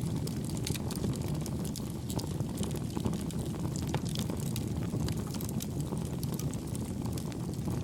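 Wood campfire burning: a steady low rumble of flame with many small, soft crackles and pops scattered throughout.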